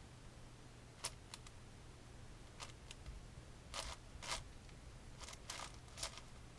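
A 7x7 speedcube's plastic layers being turned by hand: scattered short clicks and slides at an uneven pace, about ten in all, some in quick pairs.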